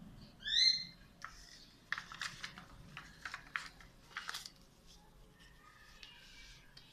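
A short, high chirp about half a second in, then a run of light clicks and rustling, as of objects being handled; the hair dryer is not running.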